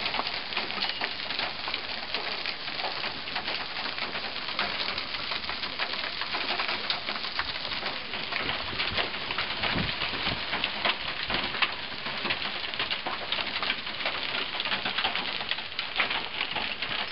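Hail coming down hard: a steady, dense clatter of countless small impacts.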